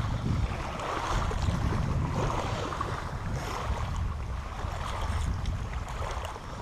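Wind rumbling on the microphone over a steady wash of water noise.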